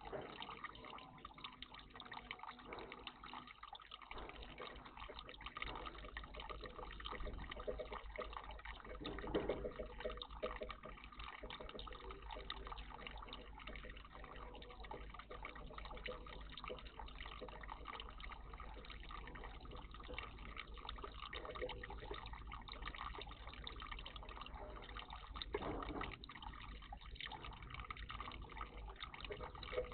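Water trickling and splashing in a garden bird bath, low and continuous, with louder moments about ten seconds in and again near the end.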